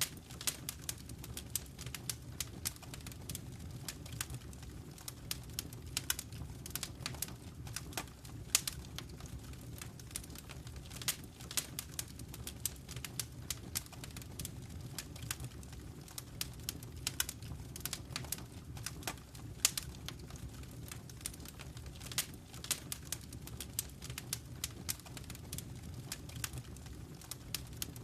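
Wood fire crackling in a fireplace: a steady low rumble of the burning fire with frequent sharp crackles and pops, a few of them louder single snaps.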